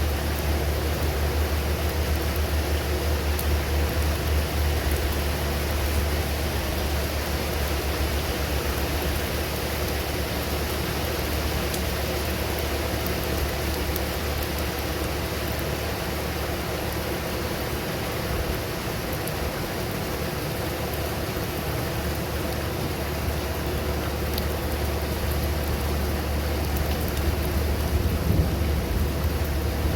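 Steady rain during a thunderstorm, an even hiss with a constant low rumble underneath.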